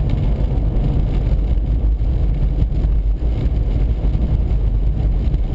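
Steady low rumble inside a car cabin at highway speed: road and tyre noise with the gusting wind against the car.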